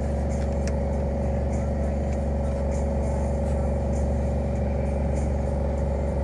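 Car engine idling, heard from inside the cabin: a steady low rumble with an even hum above it.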